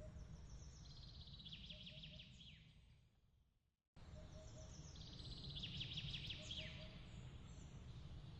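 Faint bird chirping in a rapid trill of quick high notes, heard twice, over a steady low rumble. About three seconds in the sound fades away to silence, then cuts back in suddenly a second later, where the ambience track loops.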